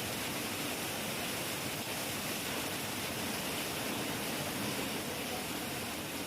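Heavy rain falling steadily, an even hiss with no thunderclap.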